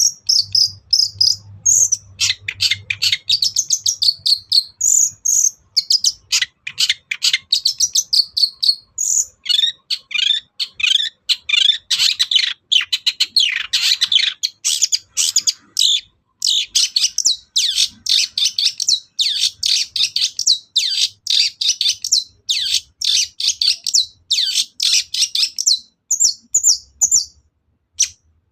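Long-tailed shrike singing a fast, nearly unbroken stream of short chattering and whistled notes, breaking off briefly near the end.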